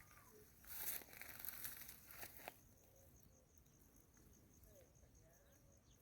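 Rustling and crackling, like steps or handling through dry vegetation, for the first two seconds or so. Then a steady, high, faint insect trill like a cricket's carries on to the end.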